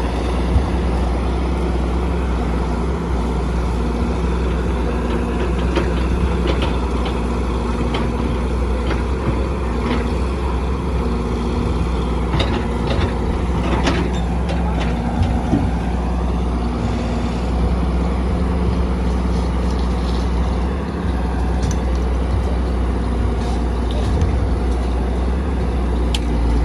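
Heavy diesel construction machinery running steadily under load, with scattered clanks and knocks of stone and steel through it.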